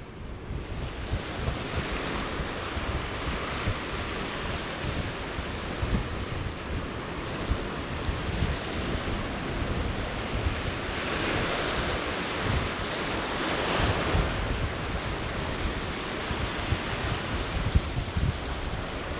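Strong wind buffeting the microphone in gusts over the steady wash of surf breaking on a sandy beach, with the hiss of the waves swelling louder about two-thirds of the way through.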